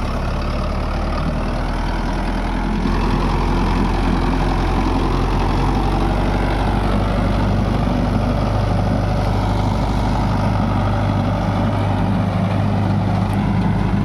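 Tractor's diesel engine running steadily, getting louder about three seconds in and holding there.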